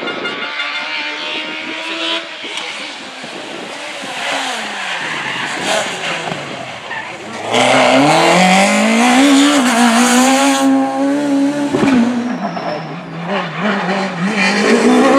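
Peugeot 306 Maxi rally car's high-revving four-cylinder engine, its pitch climbing and dropping as it works up and down through the gears. It is loudest for about three seconds around the middle, with a rush of tyre and road noise, and revs rise again near the end.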